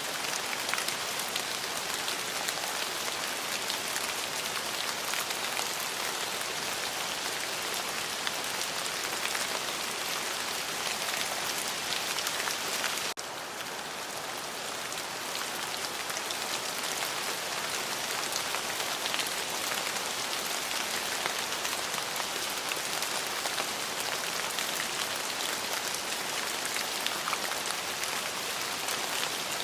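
Steady rain falling on a surface, a dense hiss with many fine individual drop ticks. About halfway through, the level drops suddenly and swells back over a few seconds.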